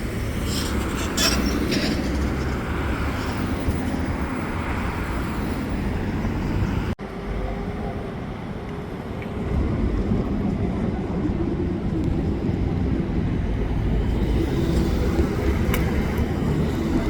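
Heavy vehicles, such as garbage trucks, running and passing on the road amid steady traffic noise. There is a brief break about seven seconds in, after which the engine and road noise picks up again.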